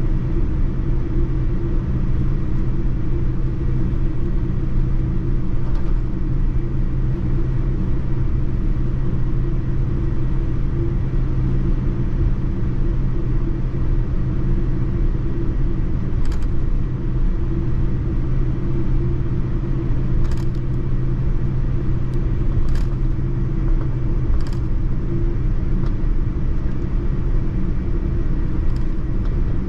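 Steady cabin noise aboard a Boeing 787-9: a loud, even engine and airflow rumble with a constant low hum, and a few faint clicks in the second half.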